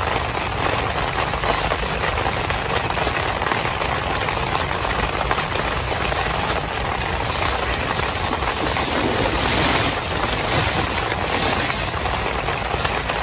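Heavy rain falling in a steady, dense hiss that swells briefly a little under ten seconds in.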